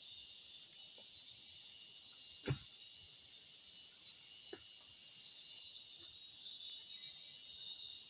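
Steady high-pitched insect chorus of a tropical forest. A few scattered dull knocks are heard over it, the loudest about two and a half seconds in.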